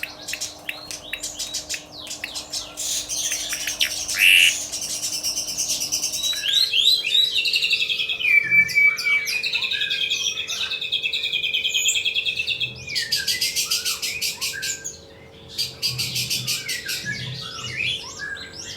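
Songbirds singing: rapid high chirps and short trills, a long continuous warbling run in the middle, and fast dense trills near the end.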